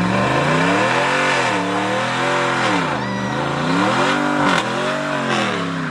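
Car engine revved hard and let fall again, rising and dropping in pitch about four times in quick waves, as the driver tries to get a burnout going.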